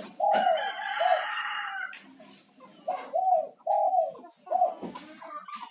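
A derkuku (spotted dove) cooing: a run of short, arched coo notes in two phrases, the second starting about three seconds in.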